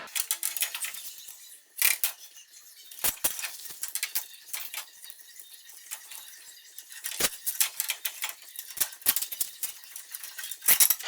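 An irregular run of light clicks, taps and clinks, like small hard objects being handled, with a few sharper knocks about 2, 3, 7 and 11 seconds in.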